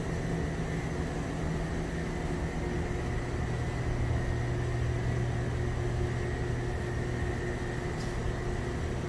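Steady machine drone with a few fixed tones, a little stronger for a few seconds in the middle, and one short click near the end.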